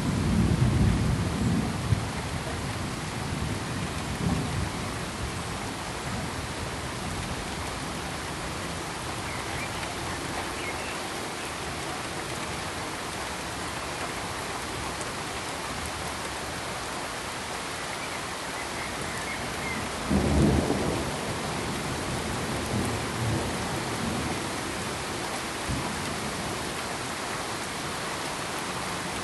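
Steady hiss of rain with low rolls of thunder, the strongest near the start and again about twenty seconds in, with fainter rumbles in between.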